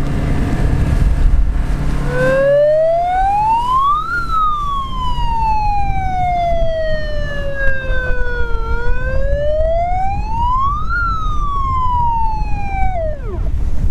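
Wailing siren that starts about two seconds in, rises and falls slowly twice, and winds down sharply near the end, over a steady low rumble of wind and motor noise.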